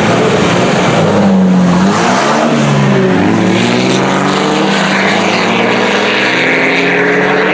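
Diesel pickup trucks, a Dodge and a Duramax, running hard side by side in a drag race, their engine notes climbing and dropping as they pull through the gears.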